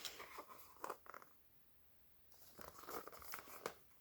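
Faint paper rustling and a few light clicks from a picture book being handled, with near silence between.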